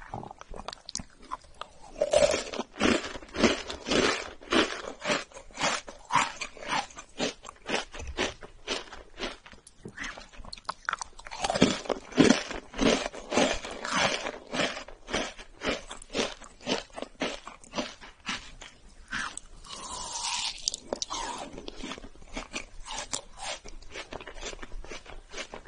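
Close-miked crunching and chewing of a crunchy chocolate cookie, a quick run of crisp crunches about two or three a second. The crunches are loudest a couple of seconds in and again around twelve seconds, then grow softer.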